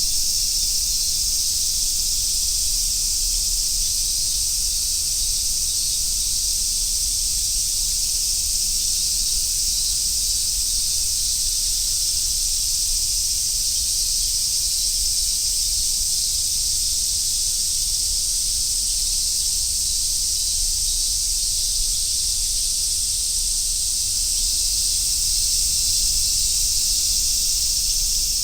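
Summer cicadas chorusing in a steady, unbroken high-pitched hiss that does not pulse or change.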